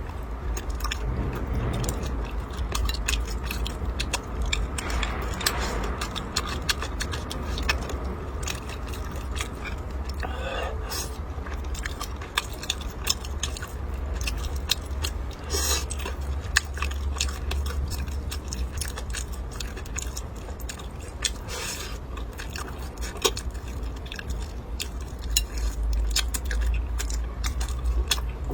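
Close-miked chewing and mouth sounds of a person eating: many small wet clicks and smacks, with a few louder bites, over a steady low hum.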